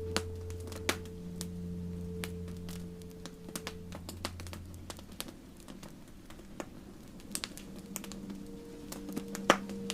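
Wood campfire crackling: irregular sharp pops and snaps, one louder pop near the end, over soft sustained music tones that fade out about halfway through.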